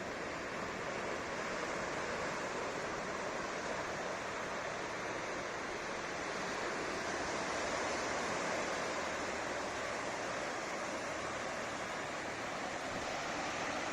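Atlantic surf washing onto a sandy beach: a steady rush of breaking waves, swelling slightly about halfway through.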